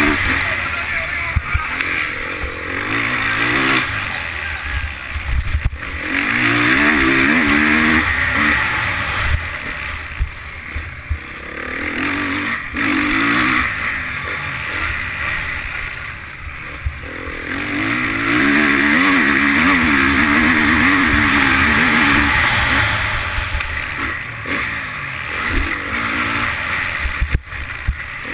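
Motocross bike engine heard on board, revving up hard and easing off over and over as the throttle is opened and closed, its pitch climbing and falling with each burst.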